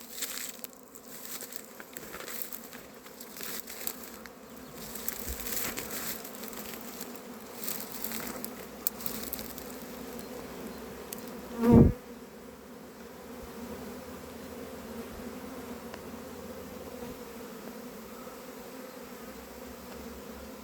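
Honey bees buzzing in a steady, low hum. About halfway through, a single bee flies close past the microphone with a brief, much louder buzz. Faint crackling and ticking run under the hum in the first half.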